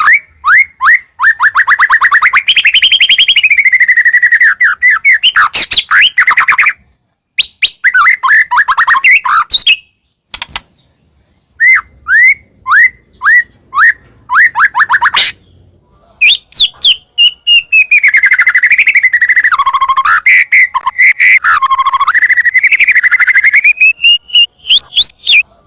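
White-rumped shama (murai batu) singing loudly in full voice: bursts of fast repeated whistled notes broken by short pauses, then near the end a long run of notes that sweep up and down in pitch.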